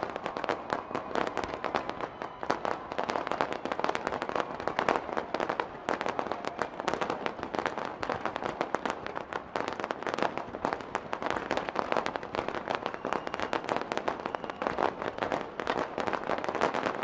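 Fireworks going off in a dense, rapid crackle of bangs, many each second.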